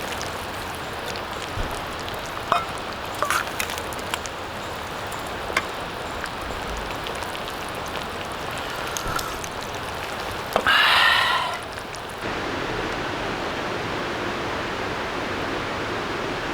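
Wood campfire crackling: a steady hiss with scattered sharp pops, and a brief louder rustling noise a little past ten seconds in.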